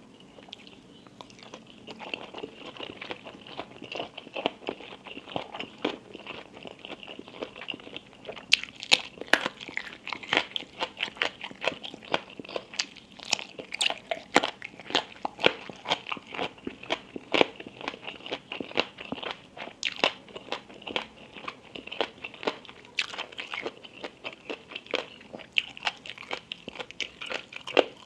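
Close-miked chewing and biting of crunchy food, with many sharp crunches that come thicker and louder from about a third of the way in.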